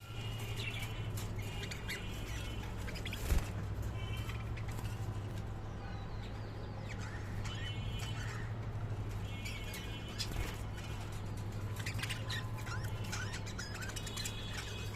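Small pet parrots chirping and squawking in short bursts, over a steady low hum, with one sharp click a little over three seconds in.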